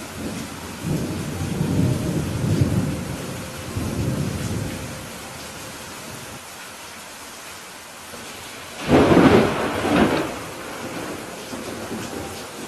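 Steady rain with thunder: a low rolling rumble over the first few seconds, then a louder, sharper thunderclap about nine seconds in.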